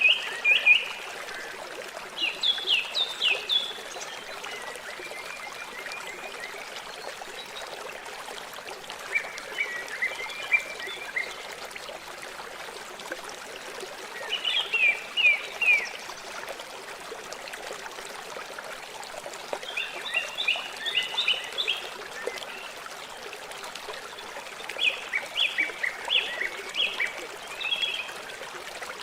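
River water flowing steadily, with a bird singing short phrases of quick high notes every few seconds over it, about seven phrases in all.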